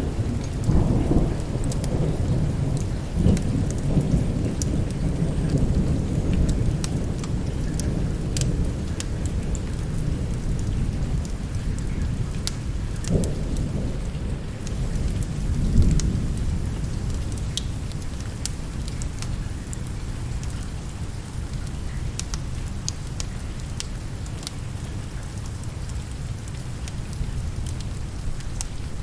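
Steady rain with thunder rolling in a deep rumble that swells twice past the middle and then dies away, leaving the rain alone. Scattered sharp ticks sound over it.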